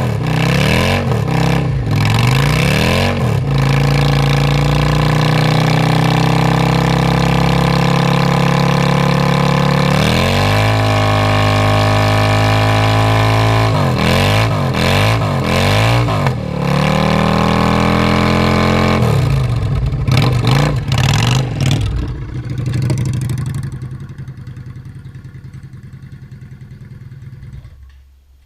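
Car engine being revved with its vacuum leak repaired: quick throttle blips alternate with revs held steady for several seconds, and near the end the engine sound falls away.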